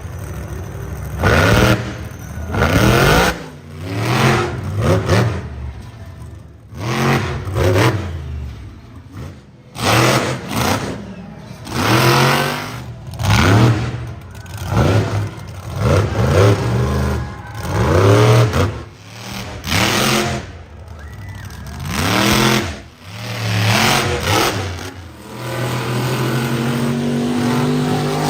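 Monster truck engine revving hard in repeated throttle bursts, each pitch climbing and dropping back, about one every one and a half to two seconds. Near the end it settles to a steadier note.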